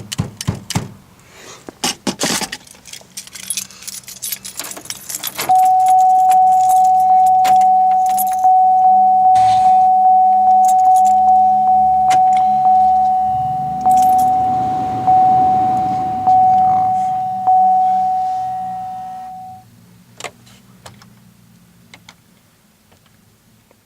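Keys jangling and clicking, then a car's warning chime dinging a dozen times, a little over a second apart, before it stops. The chime is from a 2008 Pontiac Grand Prix with the key in before the cold start.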